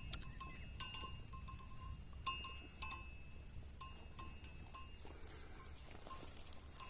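A goat's neck bell clanking irregularly as the goat moves and feeds, in quick clusters of ringing metallic strikes.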